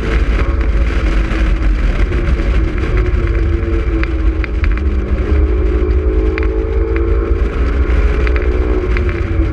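Honda S2000's four-cylinder engine running at speed, its pitch rising and falling gently with the revs, under heavy wind rumble on the microphone from the open-top cabin.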